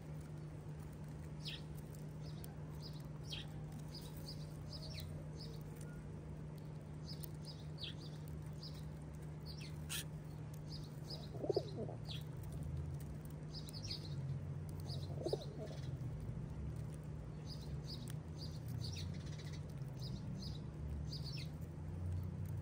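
House sparrows chirping over and over in short, high notes, with two brief louder wing flutters a little past halfway, over a steady low hum.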